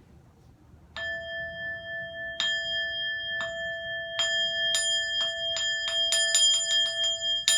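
A Buddhist bowl bell (keisu) struck about fifteen times, the strokes speeding up from about a second and a half apart to several a second, each stroke ringing on over the last. This accelerating roll signals the start of the sutra chanting in a Soto Zen morning service.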